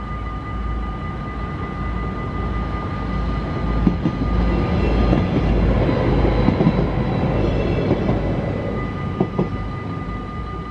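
An Arriva GTW diesel multiple unit passes over the level crossing. It builds to its loudest in the middle and then fades, with a few sharp wheel clacks over the rail joints. The crossing's warning bells ring steadily throughout.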